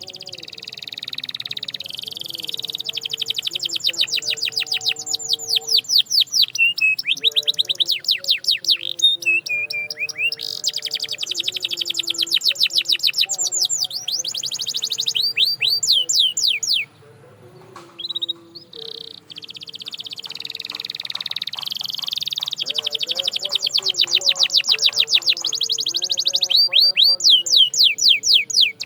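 Canary singing: long runs of rapid repeated high notes in fast trills and rolls, broken by a short pause about two-thirds of the way through.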